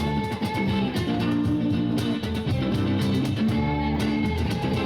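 A live rock band playing an instrumental passage led by electric guitar, with no singing.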